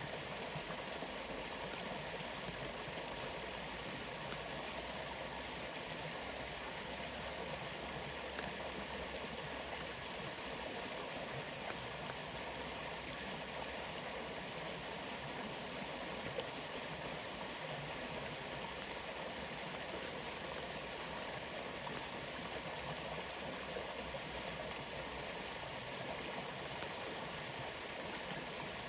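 Waterfall water rushing steadily, an even, unbroken wash of sound.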